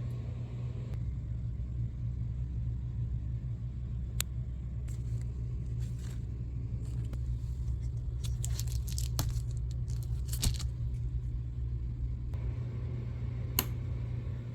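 Steady low road rumble inside a moving car's cabin, with a few light clicks and rattles.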